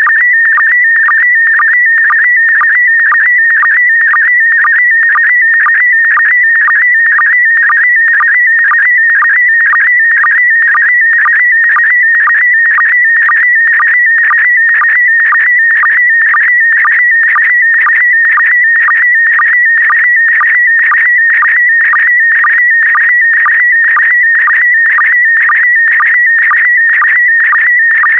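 Slow-scan television (SSTV) signal in PD120 mode sending image data: a loud, continuous high warbling tone that wavers in pitch as it encodes each picture line, broken by short lower sync pulses about twice a second.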